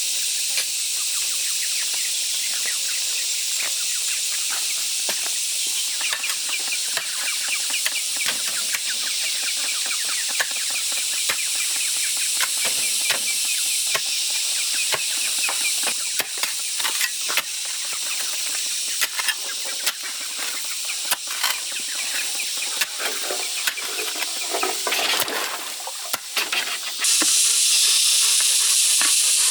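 Chickens clucking over a steady high-pitched hiss, with scattered sharp knocks from about six seconds in.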